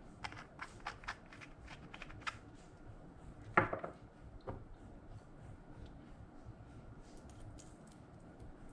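Slime being handled, giving a quick run of small clicks and pops, then one louder squelch about three and a half seconds in and a few fainter clicks later.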